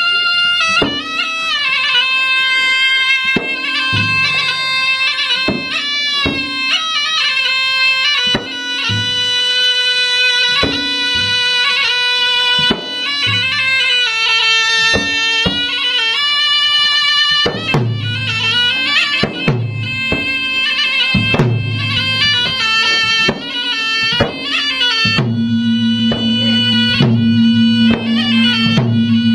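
Traditional Maros gendang ensemble music: drums beaten in a running rhythm under a shrill, sustained reed-pipe melody that moves between notes. A steady low drone joins in near the end.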